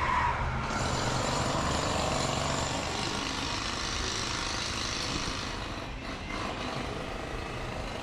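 Engine noise of something passing by: a broad rushing drone that swells about a second in and fades away over the following few seconds.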